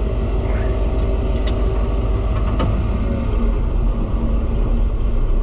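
The big White farm tractor's engine running steadily in gear while pulling a disc, a continuous low drone. The gear is probably too tall for the tractor, so the engine is working hard.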